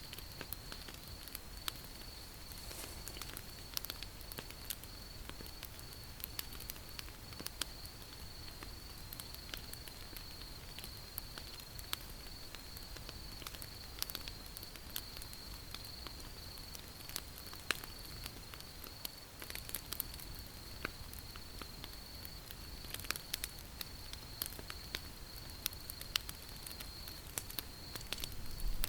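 Wood fire crackling: irregular sharp pops and snaps, with a few louder ones near the end, over a steady high-pitched tone.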